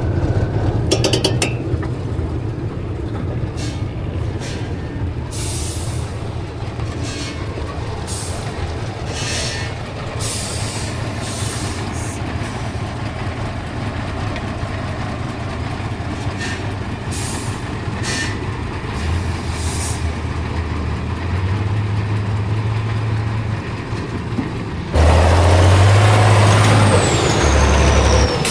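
Heavy truck-trial truck's diesel engine running steadily, with several short hisses in the first half. About 25 s in, it suddenly gets much louder, and a high whine falls in pitch near the end.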